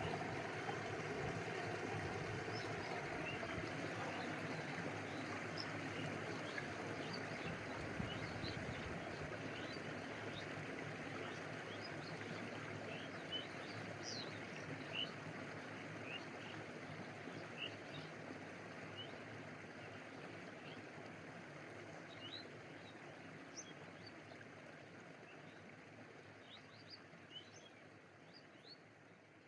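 Stream water flowing steadily, with short high bird chirps scattered over it, the whole slowly fading out.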